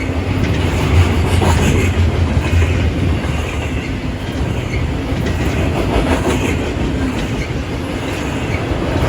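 Train rolling past on the rails: a steady, loud rumble of wheels on track, strongest in the first few seconds, with scattered clicks.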